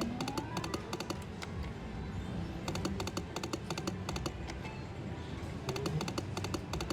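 Best Bet Lightning Link slot machine sounds: repeated clusters of quick clicking ticks as the reels spin and stop. A rising tone sounds near the start, with the machine's music underneath.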